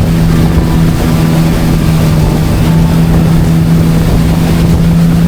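Kawasaki jet ski engine running at a steady speed, a loud, even drone that holds one pitch.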